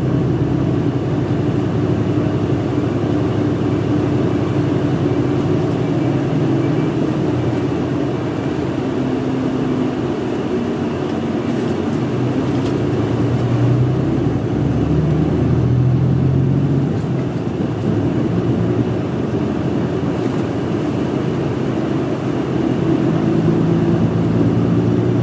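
Inside a city bus on the move: its diesel engine hums under road noise, with the engine pitch rising and falling a few times as the bus speeds up and slows.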